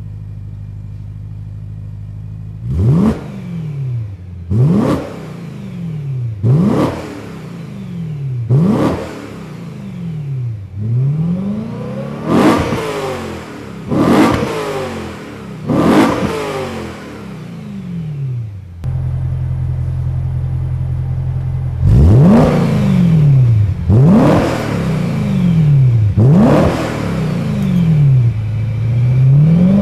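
BMW E92 M3's 4.0-litre V8 through a Gruppe M titanium exhaust, idling and then blipped in quick free revs about every two seconds, each a sharp rise in pitch that falls back to idle. Around two-thirds of the way through the idle becomes steadier and louder, and another run of blips follows.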